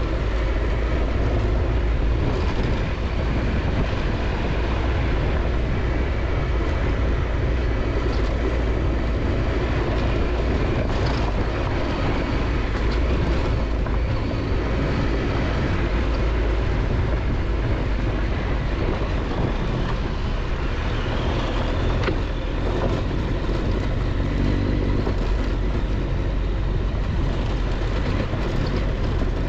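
Adventure motorcycle riding steadily on a dirt road: engine running under a heavy, low wind rumble on the microphone.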